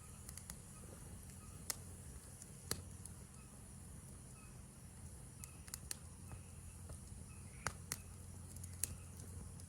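Wood campfire crackling, with a handful of sharp pops at irregular moments, over a steady high chorus of insects and faint repeated chirping.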